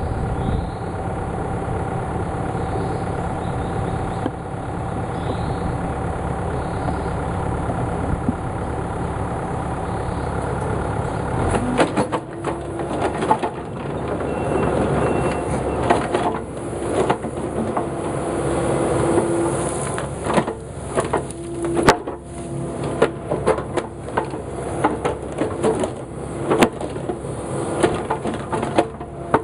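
A heavy forestry machine's engine running steadily. About twelve seconds in, it gives way to repeated knocks and clattering, with a whine that comes and goes several times.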